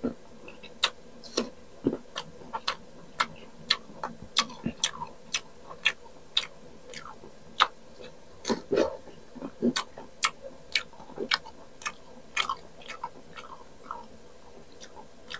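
Chewing and crunching of firm unripe green mango slices close to the microphone: sharp, irregular crunchy clicks a few times a second, with wet mouth sounds between bites.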